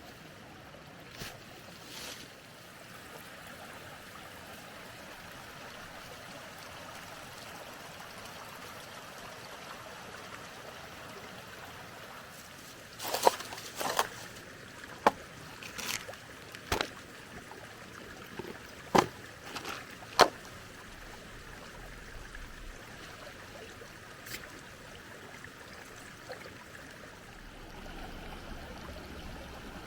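Mountain stream running steadily, with a handful of sharp clicks and knocks in the middle.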